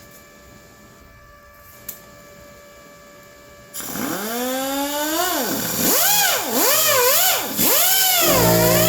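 A stick-welding arc is struck about four seconds in, after a few quiet seconds. It then runs loud and crackling, with a pitched buzz that swoops up and down as the arc length changes. Near the end it settles into a steady buzzing hum.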